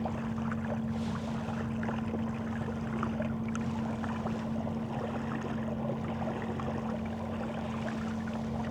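Kayak moving on the water: light splashes and lapping against the hull, over a steady low hum.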